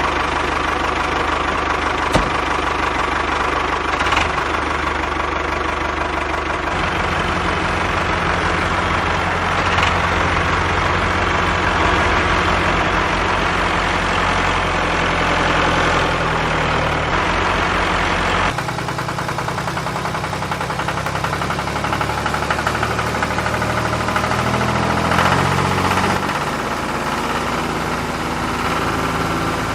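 Tractor engine running steadily at idle, with a knocking beat; the sound changes abruptly about two-thirds of the way through.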